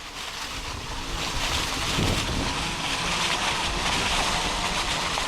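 Wind buffeting the microphone and tyres rolling over a dirt trail while riding an electric bike, a steady rushing noise with low rumble and no engine sound.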